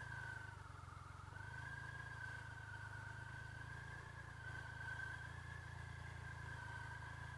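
Faint steady low hum with a thin, slightly wavering high whine above it, like a distant engine running.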